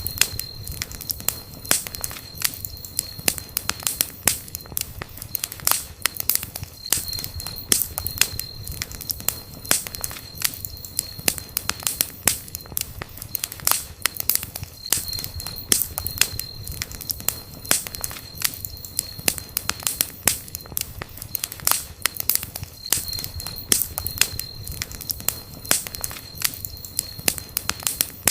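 Wood campfire crackling and popping steadily, over a low rumble of flame, with a thin high whine that comes and goes every few seconds.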